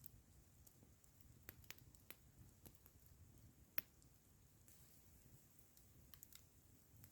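Wood campfire crackling faintly, with scattered sharp pops and snaps, the loudest about four seconds in, over a steady low background noise.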